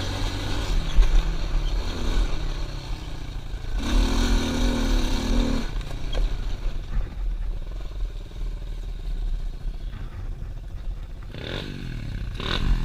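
Pit bike engine running under way, its revs rising and falling, with a stronger spell of higher revs about four seconds in and revs climbing again near the end.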